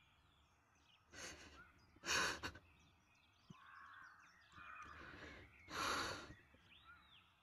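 A woman breathing hard and sighing in distress: loud breaths about a second and two seconds in and again near six seconds, with softer breathing between them. Faint bird calls sound in the background.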